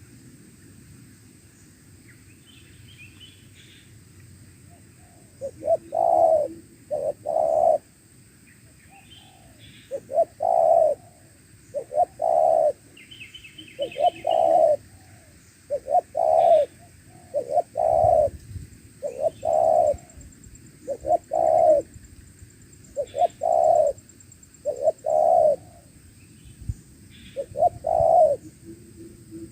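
Spotted dove (tekukur) cooing: short phrases of a few low coos repeated about every two seconds, starting a few seconds in. Faint high chirps of smaller birds sound between the phrases.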